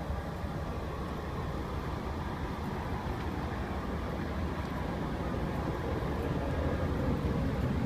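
Steady low rumble and hum of the ambient noise inside an Amtrak Pacific Surfliner passenger rail car, with no distinct events.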